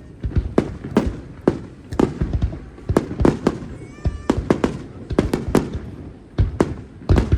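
Aerial fireworks shells bursting in rapid, irregular succession, two or three sharp bangs a second, each with a short rumbling tail. Faint brief whistles sound about four seconds in.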